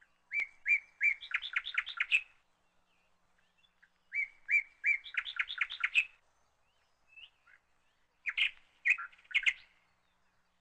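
A songbird singing three phrases a few seconds apart, each opening with a few separate notes and running into a quick series of notes; the first two last about two seconds, the third is shorter.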